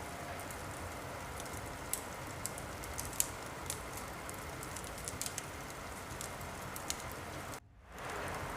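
Steady rain hiss with scattered sharp crackles and pops from a wood fire. About seven and a half seconds in the sound drops out briefly, then fades back in.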